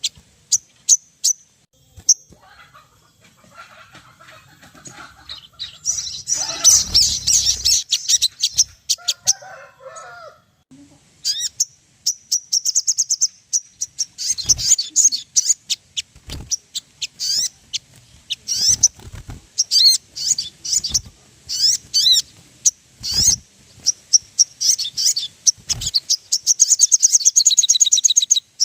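Sogon birds calling: rapid high chirps and chattering trills that come in bursts and run on without pause, with scattered sharp clicks among them.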